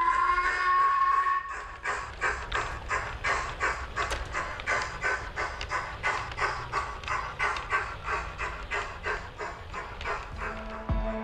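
OO gauge model steam locomotive's sound-decoder chuffing, an even rhythm of about four chuffs a second. A held tone sounds in the first second and a half, then stops.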